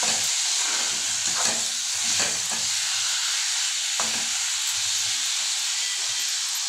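Potatoes in a thick spiced tomato masala sizzling steadily in oil in a kadai on high flame. A flat metal spatula scrapes and turns them in a few strokes, about a second apart in the first half.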